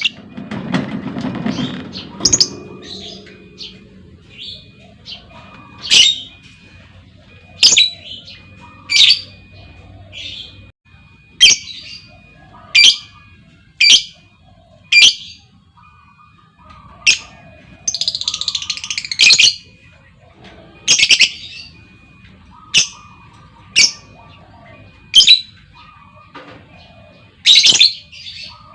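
Female lovebird giving loud, sharp, shrill calls one after another, one every second or two, with one longer, harsher chattering call about two-thirds of the way through. These are the calls of a female used as a lure to set other lovebirds chattering.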